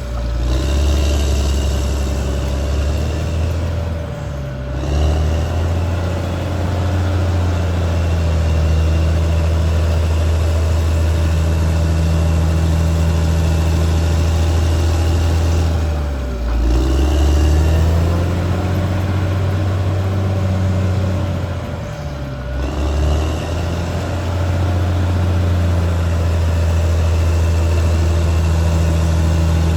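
Caterpillar D6R XL bulldozer's diesel engine running steadily under load. Its pitch dips briefly and climbs back three times, about four, sixteen and twenty-two seconds in.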